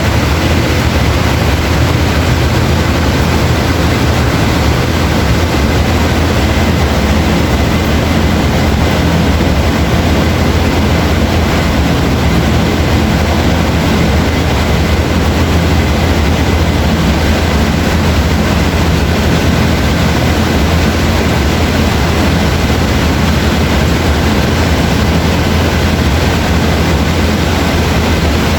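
Heavy rain falling steadily: a dense, even hiss with a constant low rumble underneath.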